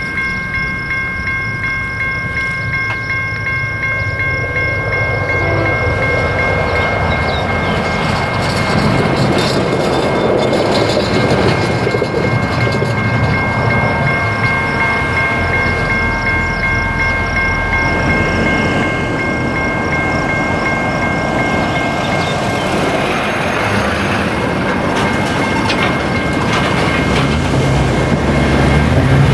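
Railroad crossing bell ringing in rapid, steady strikes while a Union Pacific train passes over the crossing. The rumble and wheel clatter of the train build up a few seconds in and stay loud.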